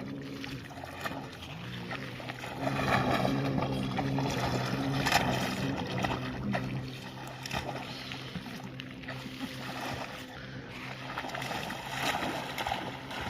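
River water splashing and sloshing, loudest from about three to six seconds in and again near the end, over a steady low motor hum.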